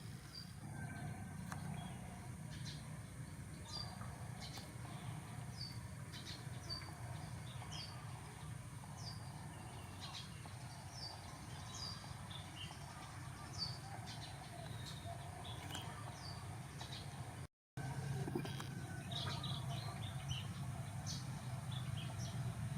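Small birds chirping: short, high chirps about once a second, over a steady low hum.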